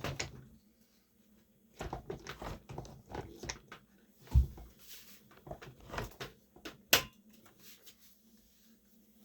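Irregular clicks and knocks of plastic parts being handled on a Hoover carpet shampooer, with a heavier thump about four seconds in and a sharp click near seven seconds.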